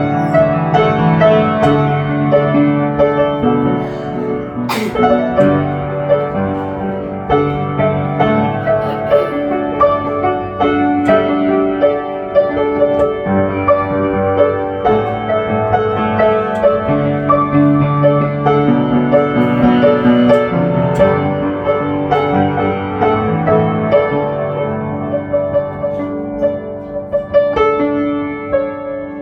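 Piano music, a flowing run of held notes, with one brief sharp click about five seconds in.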